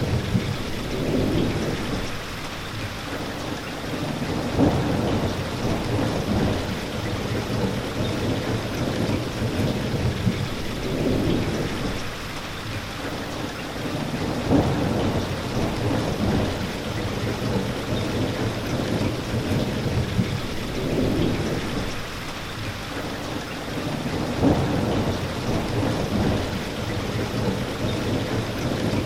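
Steady rain falling, with deep rumbles swelling and fading every few seconds.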